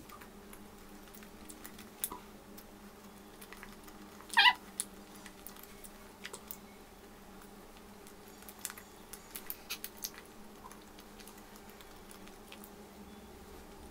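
Quiet close-up eating: soft chewing and small mouth clicks from a person eating a cupcake, over a faint steady hum. About four seconds in comes one short, high-pitched cry-like squeak, the loudest sound.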